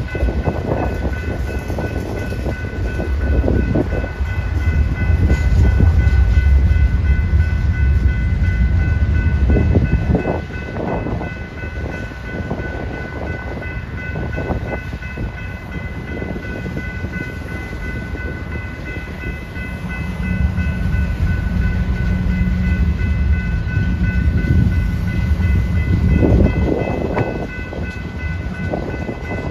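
BNSF freight train cars rolling past close by: a deep rumble of steel wheels on the rail with rattling clicks, swelling louder twice as heavier stretches of the train go by, and a steady high ringing tone over it.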